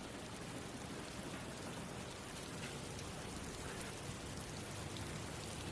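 Steady rain falling, an even hiss of rain with no break or change.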